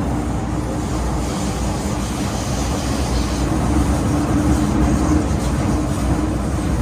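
MTR M-Train electric multiple unit heard from inside the carriage, running at steady speed through the cross-harbour tunnel: a constant rumble of wheels on rail with a steady hum from the traction motors.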